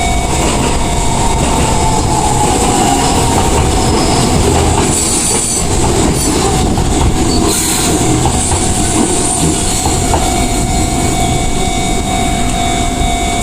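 An Enoden (Enoshima Electric Railway) train running through a level crossing, its wheels rumbling and knocking over the rail joints, with a squeal that falls in pitch over the first few seconds. The crossing's warning signal sounds a steady tone throughout.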